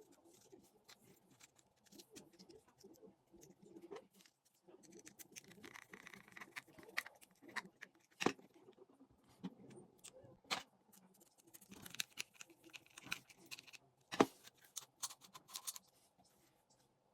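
Small parts of a spinning fishing reel being handled during repair: light clicks, taps and scraping, with three sharper clicks at about 8, 10 and 14 seconds in.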